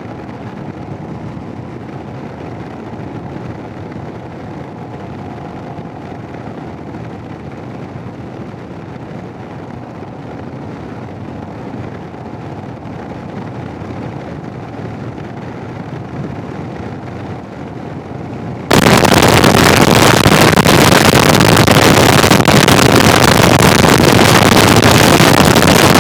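Motorcycle riding noise, muffled, heard through the helmet microphone of a Sena 10C Evo intercom. About three-quarters of the way through, it jumps suddenly to a very loud, harsh wind roar: a Garmin GPS direction has cut the helmet mic and left the Sena unit's bare external microphone fully open to the wind.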